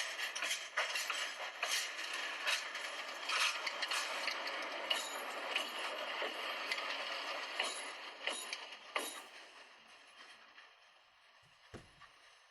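A train's wheels clattering on the rails, with dense rattling and repeated sharp clicks. The sound fades away over a few seconds about two-thirds of the way in, as the train moves off.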